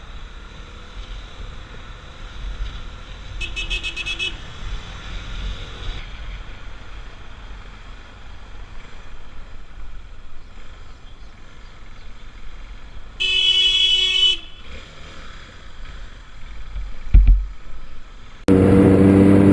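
Street traffic with car horns: a quick run of short beeps about three seconds in, then a loud horn blast of about a second later on. A sharp thump comes shortly before the end, followed by a louder steady pitched sound.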